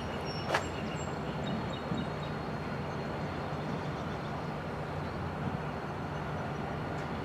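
A train running with a steady rumble, with a sharp click about half a second in.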